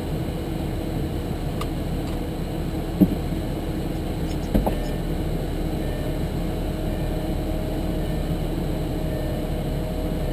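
Lamborghini Gallardo's V10 idling, a steady low rumble heard inside the cabin, with two short knocks about three and four and a half seconds in.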